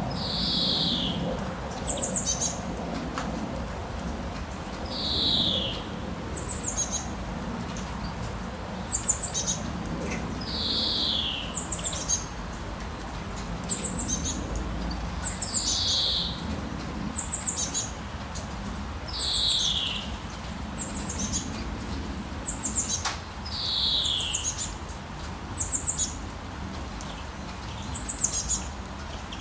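Songbirds calling over and over in a steady pattern: a falling high note, then quick, even higher chirps, repeating every few seconds over a low steady rumble of background noise.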